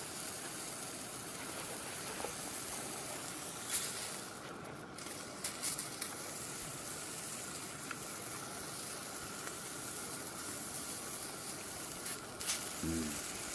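Meat frying on a thick iron griddle plate, a steady sizzle with a few faint clicks. Near the end there is a brief low hum from a voice.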